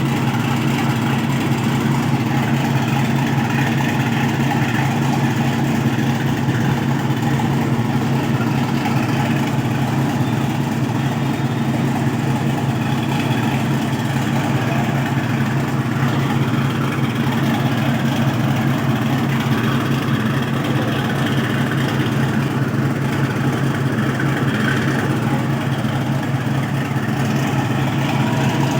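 A train's engine running with a steady low drone that does not change.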